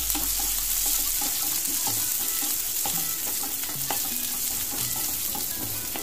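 Sliced onions and green chillies sizzling in hot oil in a frying pan, with a steady hiss, while a wooden spatula stirs them, giving short scrapes and light knocks against the pan.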